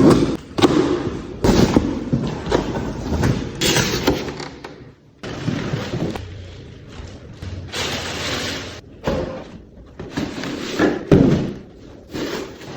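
Cardboard box and packaging handled during an unboxing: irregular thuds and knocks with rustling and scraping in between.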